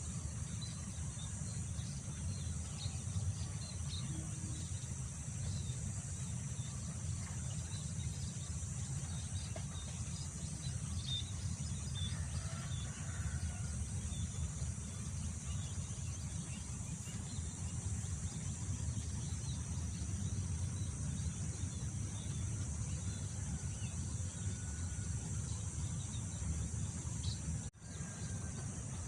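Wind buffeting the microphone as a steady low rumble, over a continuous high insect drone, likely crickets, with scattered faint bird chirps. The sound briefly drops out near the end.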